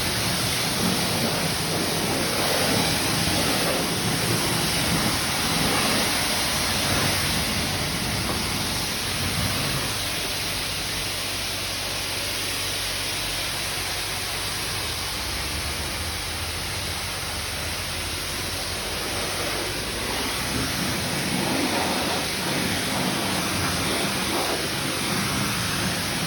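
High-pressure wand of a coin-operated car wash spraying foaming soap onto a van's bodywork: a steady hiss of spray, a little softer for a stretch in the middle.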